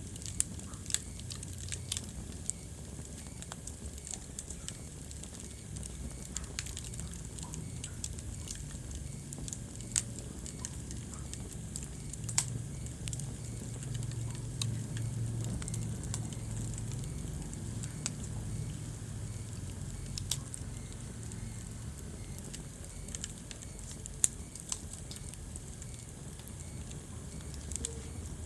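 Wood fire crackling in a fireplace: irregular sharp pops and snaps over a steady low rumble of the flames, with a handful of louder pops scattered through.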